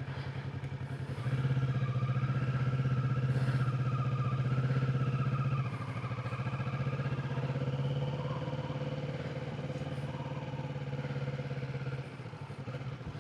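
Kawasaki Ninja 650's parallel-twin engine running as the bike is ridden. It steps up in volume about a second in, drops back a little near six seconds in, and eases off near the end.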